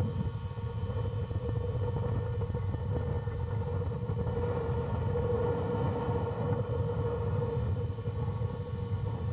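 Steady wind rumble buffeting a small camera's microphone, with a steady mid-pitched whine underneath.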